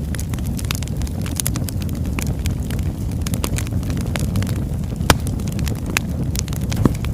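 Oak logs burning in a fireplace: a steady low rumble of flames with frequent sharp crackles and pops, the loudest about five seconds in.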